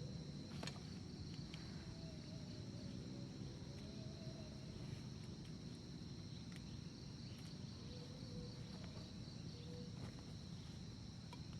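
Steady insect chorus, crickets trilling in a continuous high drone, over a low background rumble with a few faint clicks.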